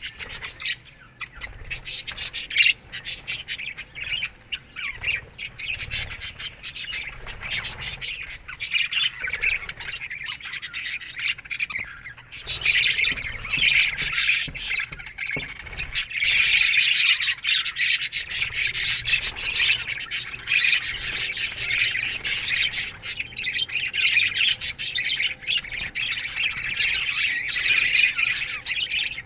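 A flock of budgerigars chattering, chirping and squawking all together in a dense, continuous warble. It grows fuller and louder a little past halfway.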